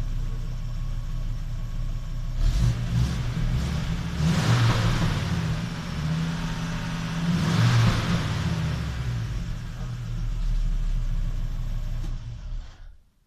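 Audi 100 2.3's five-cylinder engine heard at the exhaust tailpipe: idling, blipped briefly a few times, then revved up hard twice, about four and eight seconds in. The sound stops suddenly near the end.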